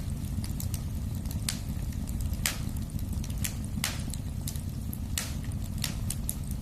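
Wood fire crackling: irregular sharp pops, about one or two a second, over a steady low rumble of the flames.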